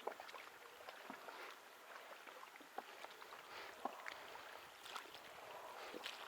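Small waves lapping and splashing, with scattered faint irregular knocks and ticks.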